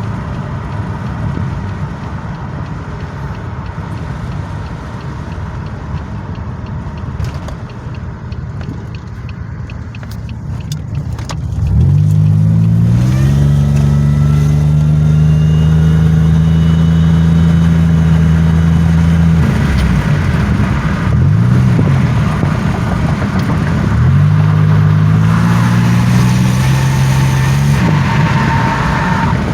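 A 2007 Pontiac Grand Prix GT driving, heard from inside the cabin. First there is steady road noise. About twelve seconds in, the engine revs up under acceleration and then holds a steady drone. It eases off, and near the end it climbs again.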